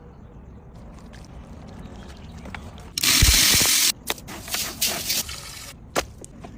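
Liquid poured in a loud rush about three seconds in, lasting about a second and stopping sharply, followed by a few shorter splashing spurts.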